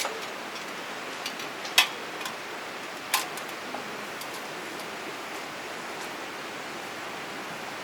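Steady rush of flowing river water, with a few sharp clicks, the loudest about two seconds in and another about a second later.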